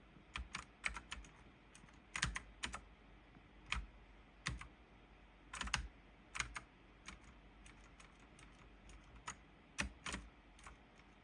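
Light clicks and taps at an irregular pace, some in quick pairs, over a faint background hiss.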